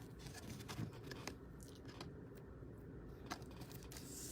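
Faint, scattered clicks and light rustling from trading cards and pack wrappers being handled, over a quiet room background.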